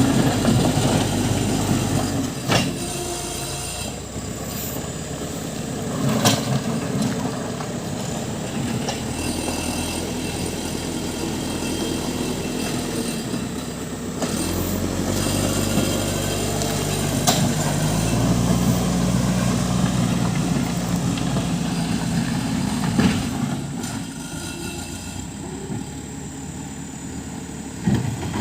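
JCB 3CX backhoe loader working: its diesel engine runs under changing load, rising in pitch about halfway through, with sharp metal clanks and squeals from the bucket and boom linkage.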